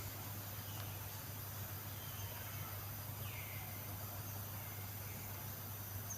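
Steady outdoor background hiss with a low hum, and a few faint, short, high chirping calls, one falling in pitch a little over three seconds in.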